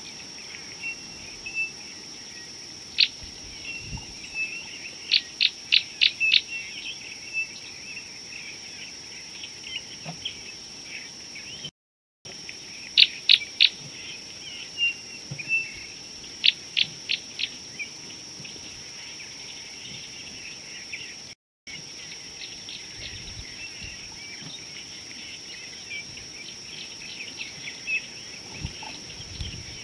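Wild birds calling in dry bush: bursts of three to five sharp, quickly repeated notes and scattered chirps, over a steady high hum. The sound cuts out briefly twice.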